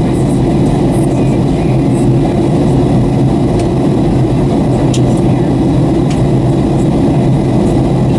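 Steady cabin noise inside a Boeing 757-300 airliner in flight on approach: a constant low drone of engines and airflow, with no change in level.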